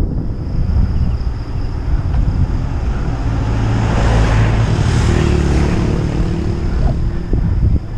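Wind buffeting the microphone while riding on a road, as a motor vehicle passes: its engine hum and tyre hiss swell to a peak about five seconds in and fade away.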